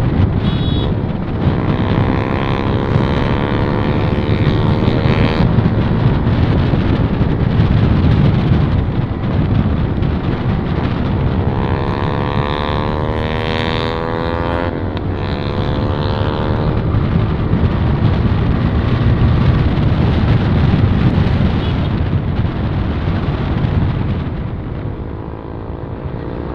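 Motorcycle engine running while being ridden, with heavy wind rush on the microphone. The engine note climbs twice as the bike accelerates, the second climb ending in a sudden drop about 15 seconds in.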